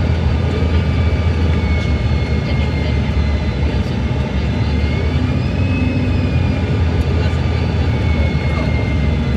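Cabin noise aboard a Bombardier CRJ-900 airliner on approach: a steady rumble of airflow and the rear-mounted GE CF34 turbofans. Over it runs a thin engine whine that drifts up in pitch around the middle and back down.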